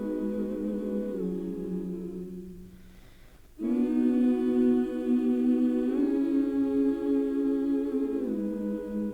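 Slow, calm background music of long hummed vocal chords, each held for a few seconds before shifting to the next. About three seconds in it fades away briefly, then a new chord enters suddenly and the held chords carry on.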